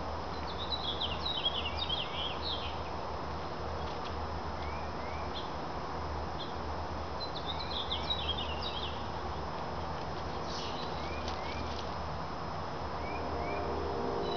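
Small songbirds singing: two bursts of quick, high twittering about a second in and again about eight seconds in, with short rising chirps, often in pairs, in between, over a steady background hum.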